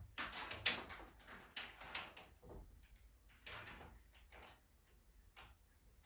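Metal hardware and tools being handled during garage door torsion spring work: irregular clanks, scrapes and clicks, with three short high metallic pings in the second half.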